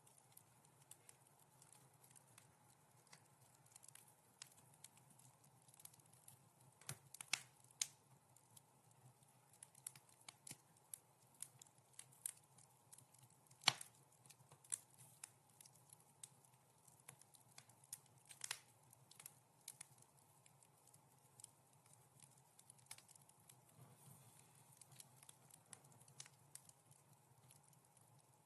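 Wood fire crackling softly in a fireplace: irregular small pops and snaps, with the sharpest pop about halfway through.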